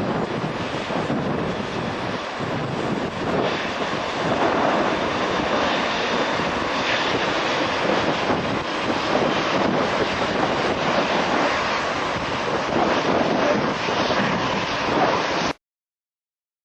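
Boeing 737-300 airliner's CFM56 turbofan engines, a loud, steady jet noise that swells slightly a few seconds in and cuts off suddenly near the end.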